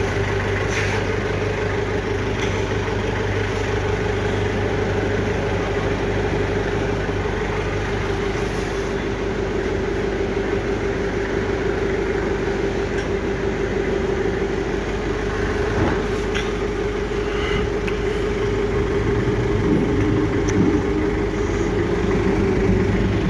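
A motor running steadily, a constant hum with a few faint clicks over it.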